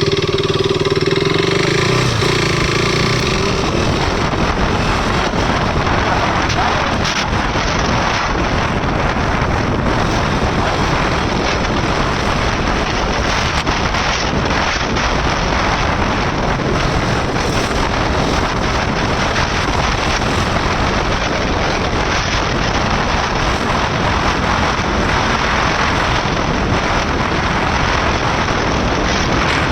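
Wind rushing over the microphone on a moving KTM RC 390, its single-cylinder engine running underneath. A steady engine note at the start gives way to the dense wind rush after about three seconds.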